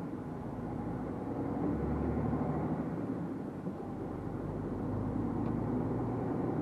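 Truck's diesel engine heard from inside the cab, pulling away and driving on. The engine note drops back and builds again twice.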